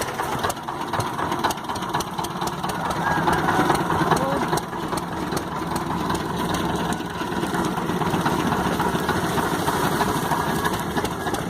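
Small fishing boat's engine running steadily, with a fast even beat.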